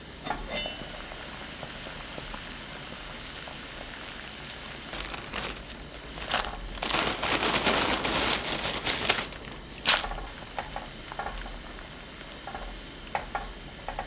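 Food frying in a pan with a steady sizzle. A louder, denser crackling stretch runs from about five to ten seconds in, with scattered clicks around it.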